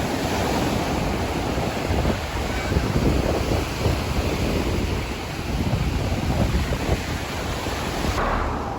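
Waves breaking on the beach, a steady rushing surf, with wind buffeting the microphone in gusts. About eight seconds in it cuts abruptly to a quieter background.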